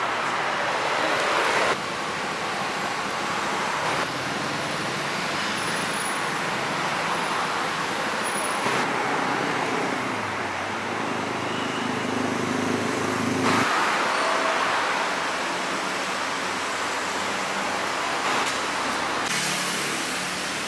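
City street traffic ambience: a steady wash of road noise from passing cars, its character changing abruptly every few seconds.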